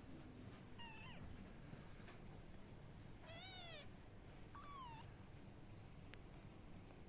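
Ten-day-old kittens mewing faintly: three short, high-pitched mews, the middle one the longest, rising and then falling in pitch.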